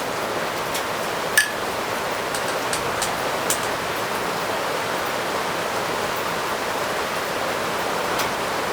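Steady heavy rain falling with a constant hiss, with scattered drip ticks and one sharp click about one and a half seconds in.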